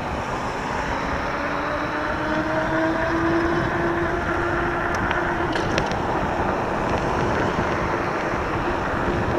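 Electric bike under way with wind and tyre noise, its 500 W 48 V motor whining at a pitch that rises slowly as the bike picks up speed. A few faint ticks come about five to six seconds in.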